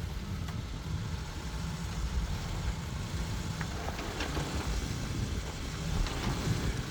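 Jeep engine running low and steady while it crawls the rock ledge, with a few faint clicks over it.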